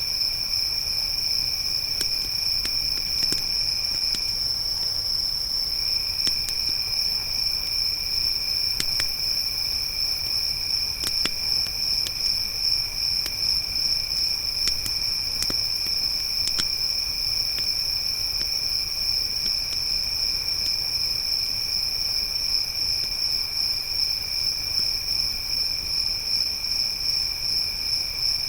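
A chorus of crickets trilling steadily in a high pitch, with a second, lower-pitched cricket trill that stops for about a second and a half about four seconds in. Scattered small crackles and pops of a campfire come through now and then.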